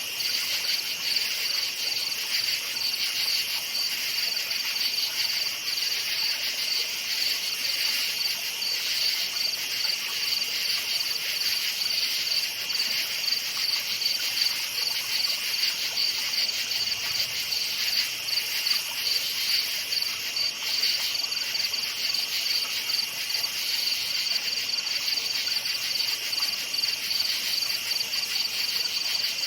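Crickets chirping in a steady, rapid pulsing chorus.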